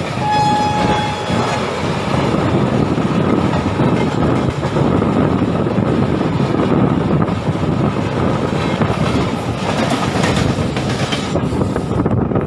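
MEMU electric passenger train running along the track: a steady loud rumble and rattle of wheels on rails, with a brief high ringing tone just after the start.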